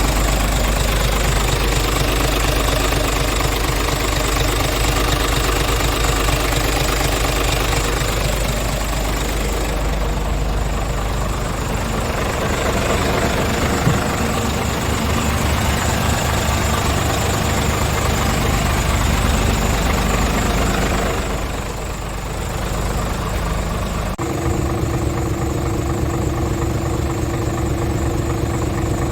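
Scania R450 truck's 13-litre inline-six diesel engine running, mostly at idle, with its pitch rising and falling in the middle as it is revved. Near the end the sound changes abruptly to a steadier hum.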